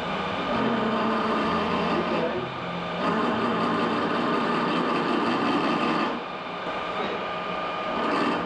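A workshop power tool working metal: a harsh steady cutting or grinding noise with a high whine, easing off briefly about two seconds in and again for a couple of seconds near the end.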